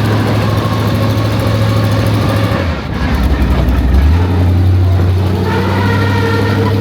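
Monster truck engine running under load. About three seconds in, its pitch drops for a moment, then steps back up about a second later.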